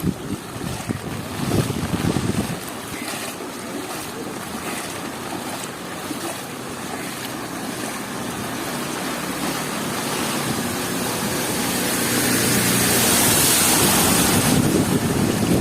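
Heavy cyclone rain with wind buffeting the microphone: a dense, steady rush of noise that swells over the second half and eases slightly just before the end.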